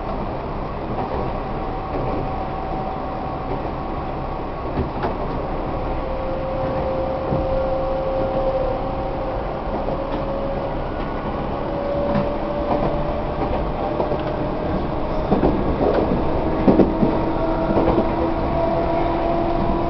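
Tobu 1800 series electric train running, heard from inside the passenger car: a steady rumble with a motor and gear whine that climbs gradually in pitch as the train gathers speed, and rail-joint knocks that come more often near the end.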